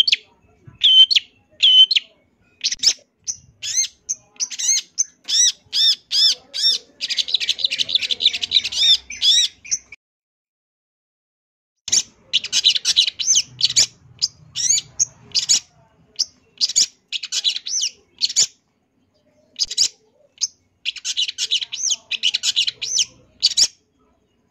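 Long-tailed shrike (cendet) singing: series of sharp, high notes and two fast chattering runs, with a pause of about two seconds in the middle. The song is packed with mimicked phrases of other birds, the kind of varied song kept as a tutor recording.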